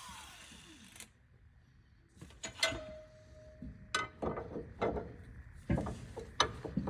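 A power grinder spinning down to a stop, its whine falling away in the first second. Then a run of separate metal clicks and knocks as metal parts are handled, one clink ringing briefly.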